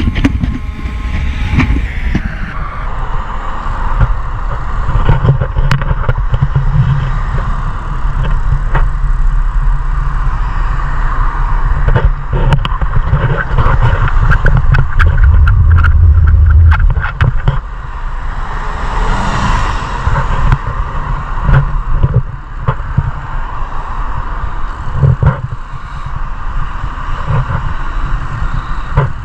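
Riding noise picked up by a bike-mounted GoPro: a steady low rumble of wind and road on the microphone, with frequent small rattles and clicks. A louder hiss swells and fades about twenty seconds in, like traffic going by.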